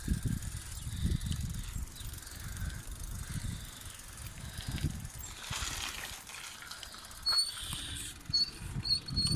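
Bicycle brakes giving several short, high squeals near the end, over a low rumble of wind and ride noise on the microphone while descending a steep, rough track.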